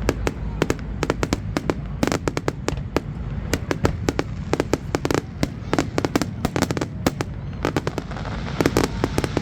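A fireworks display: a rapid, irregular run of sharp cracks and bangs, several a second, over a steady low rumble.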